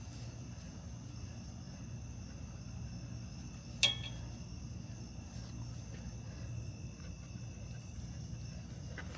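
Crickets chirping steadily in the night, with a pulsing high trill over a constant high ringing tone. About four seconds in, a single sharp metallic clink rings briefly.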